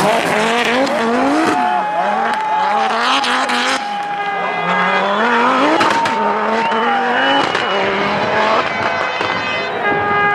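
Group B rally car engine accelerating hard through several gear changes, its note climbing and then dropping back with each shift.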